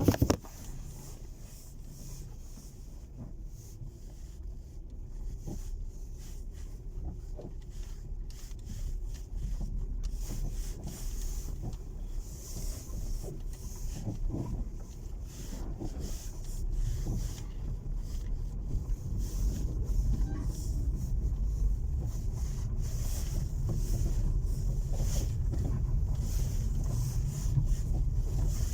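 A car driving, heard from inside the cabin as a steady low road and tyre rumble that slowly grows louder, with a few faint knocks along the way. There is a brief loud clatter right at the start.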